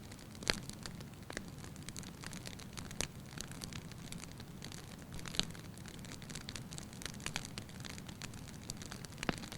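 Wood fire burning in a fireplace, the firewood crackling lightly: irregular sharp pops and snaps over a steady low rush of the flames.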